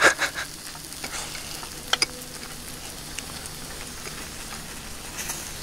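Takoyaki sizzling in a cast-iron takoyaki pan over a charcoal fire as the balls are turned with a metal pick. Two sharp clicks of the pick against the pan about two seconds in.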